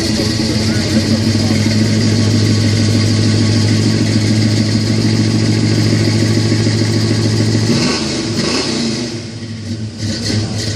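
Old muscle car engine held at a steady raised rev for about eight seconds, then the revs drop back and it runs quieter.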